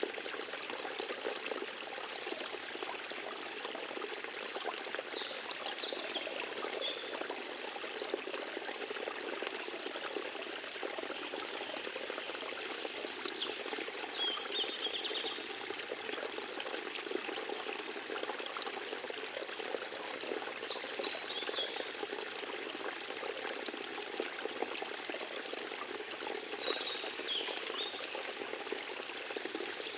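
Forest stream flowing, a steady trickling and pouring of water. A few short, high chirps sound now and then above it.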